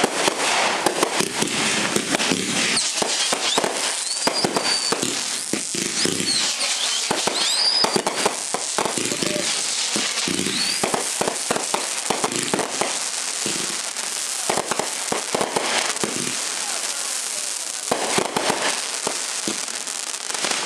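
Fireworks crackling and popping in a dense, continuous barrage of sharp bangs, with a few brief high whistles among them.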